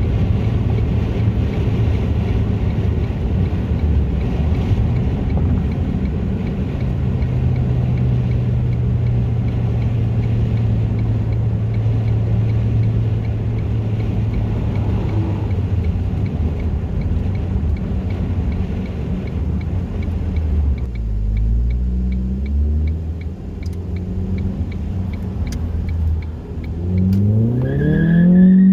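2004 Ford Focus 2.0 Zetec four-cylinder with a race header, 2.5-inch downpipe and exhaust, holding a steady drone for about twenty seconds. It then drops off and, near the end, revs up with a quickly rising pitch.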